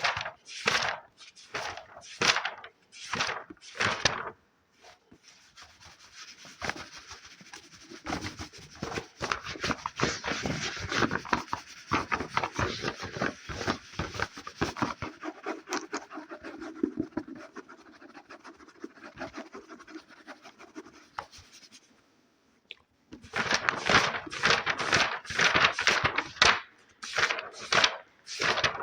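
Close-miked ASMR hand sounds: fingers scratching and rubbing on an object. It opens with sharp strokes about twice a second, then turns to a long run of soft, fast scratching. Near the end come quicker, louder strokes.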